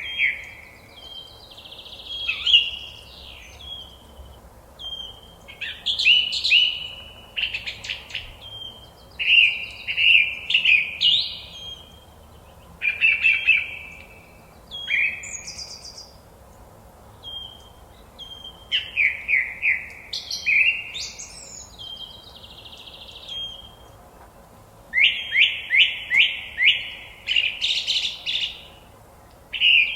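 Forest songbirds singing: short phrases of quickly repeated high notes, one every couple of seconds with brief pauses between.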